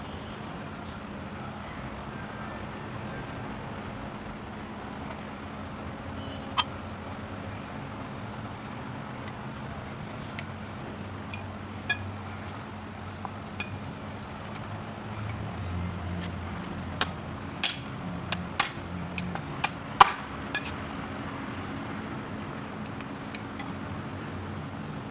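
Small metal parts and tools clinking and clicking as a diesel injection pump is worked on. The clinks come singly at first, then in a quick cluster from about two-thirds of the way in, over a steady low rumble.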